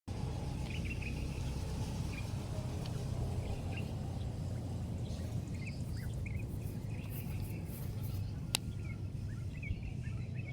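Outdoor background noise: a steady low rumble with scattered short bird chirps, and a single sharp click about eight and a half seconds in.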